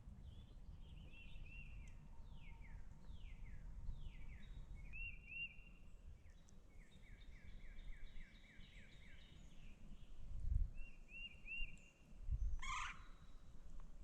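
Several songbirds calling and singing: repeated short whistled notes, falling slurred whistles and quick trills, over a low outdoor rumble. Two low thumps come near the end, the louder sounds in the stretch.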